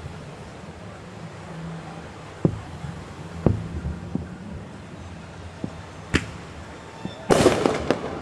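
Fireworks going off: single sharp bangs every second or so, then a dense rapid crackling burst near the end, the loudest part.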